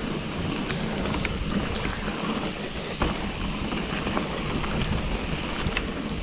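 Mountain bike descending a wet, rocky trail: steady wind rush on the microphone over tyre noise, with scattered sharp clicks and knocks of the bike rattling over rocks.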